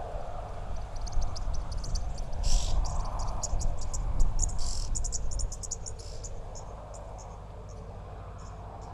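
Crickets chirping in many short, high pulses over a low rumble that fades out about halfway through, with two brief rustles in the first half.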